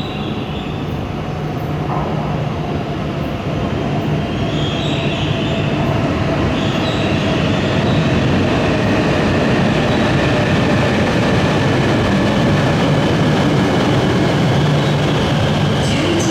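E8 series Shinkansen train pulling into the station: a dense rumble of running gear and air growing louder over the first several seconds, then holding steady, with thin high whining tones above it.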